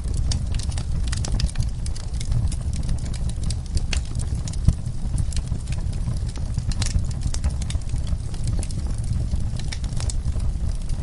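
Fireplace fire crackling, with scattered irregular pops and snaps over a steady low rumble, and one louder pop a little under halfway through.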